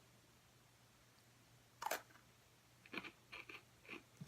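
Near silence, broken by one short, sharp crackle about two seconds in and a few soft clicks and crinkles near the end, like a snack wrapper being handled or a bite into a crisp snack.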